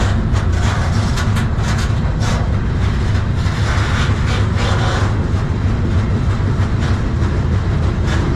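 Freight train rolling along the track, heard from aboard: a steady low rumble with quick rattling clicks, thickest in the first three seconds.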